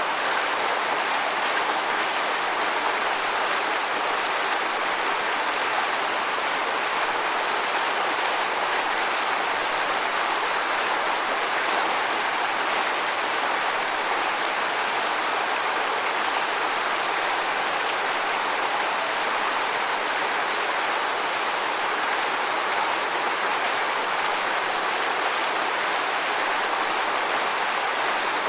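Waterfall: water falling and rushing in a steady, even wash of noise.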